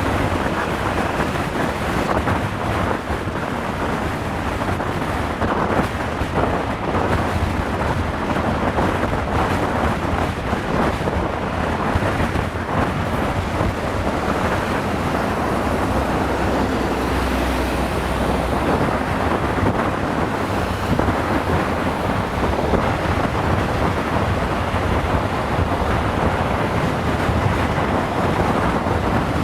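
Heavy wind buffeting on the microphone of a moving motorcycle on a highway, with road and engine noise underneath. A deeper rumble swells briefly about sixteen to eighteen seconds in.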